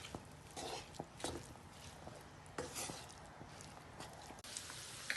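A spatula scraping and knocking in a frying pan, a few separate strokes, as chicken mince and chopped capsicum are stirred together; a low steady sizzle comes up near the end.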